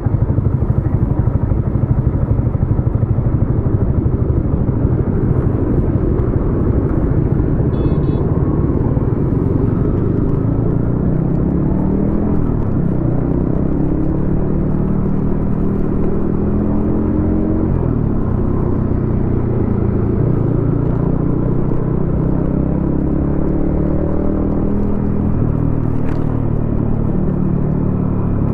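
Yamaha XSR155 single-cylinder engine running through a homemade exhaust while riding in traffic. It rumbles low and steady at first, then rises and falls in pitch again and again as the bike accelerates through the gears and eases off. A short horn beep sounds about eight seconds in.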